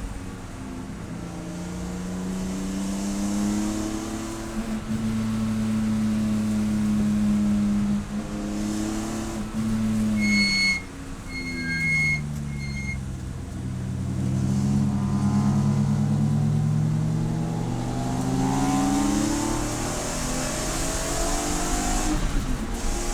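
Race car engine running at high revs, the pitch dropping as it slows about eight seconds in, then climbing steadily again under acceleration and shifting near the end. Three short high beeps sound while the revs are low.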